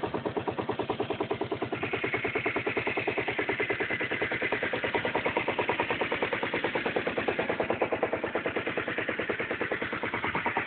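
Aprilia Leonardo 150 scooter's single-cylinder four-stroke engine running steadily at low revs, a fast, even pulsing of firing strokes.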